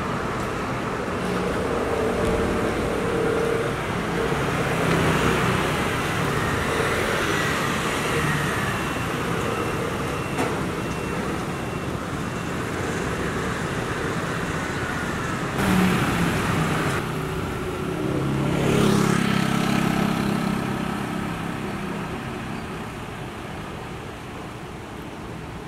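Street traffic with vehicle engines running, one vehicle growing louder and passing about three-quarters of the way through before the sound eases off near the end.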